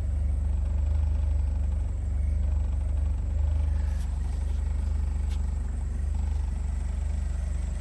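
1980 Volkswagen Scirocco's four-cylinder engine idling steadily, warming up just after a cold start, with two light clicks about four and five seconds in.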